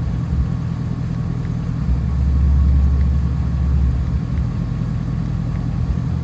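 Chevrolet Avalanche pickup's engine idling steadily, with a deeper low drone swelling for about two seconds in the middle.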